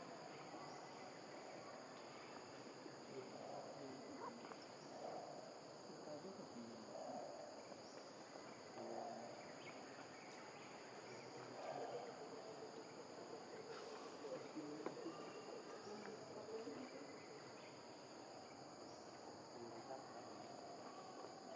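Faint, steady high-pitched insect buzzing, with faint distant voices murmuring underneath.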